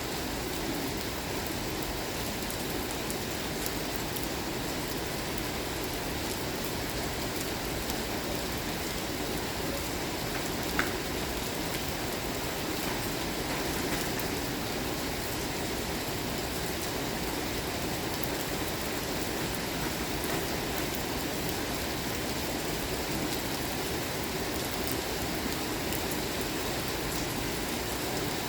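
Steady rain falling, an even hiss without a break, with one brief sharp tick about eleven seconds in.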